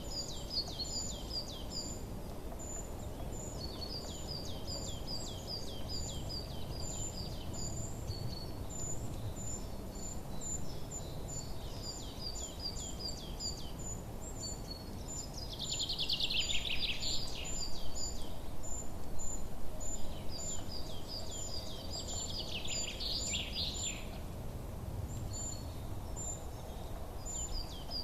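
Songbirds chirping: quick runs of short falling chirps, over a high note repeating about twice a second and a steady low background rumble. A louder burst of dense trilling comes a little past the middle, and again about two-thirds of the way in.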